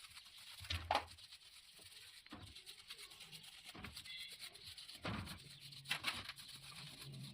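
A few scattered knocks and rubbing sounds, the loudest pair about a second in and another pair around five to six seconds in, as of engine parts being handled during assembly.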